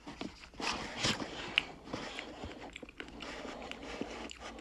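A person chewing a mouthful of spicy boneless chicken feet, with irregular soft wet clicks and squishes.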